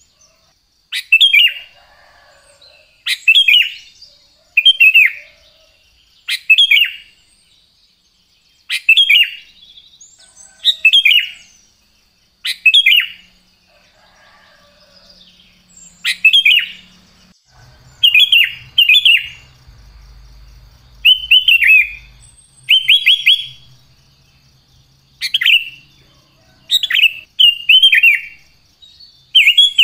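Sooty-headed bulbul singing, short bubbly phrases of a few quick notes repeated every second or two.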